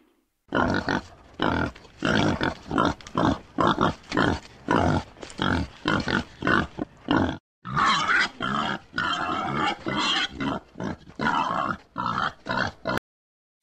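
A farm animal giving a quick series of short, rough calls, about two a second, with a brief break about seven and a half seconds in.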